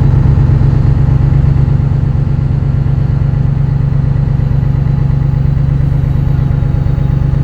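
Scania V8 marine diesel engine running steadily as the fishing boat gets under way: a loud, even, low drone.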